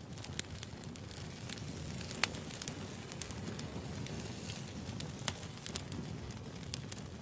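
Wood campfire burning with a steady low hiss and rumble, broken by irregular sharp crackles and pops, the loudest about two seconds in and again a little past five seconds.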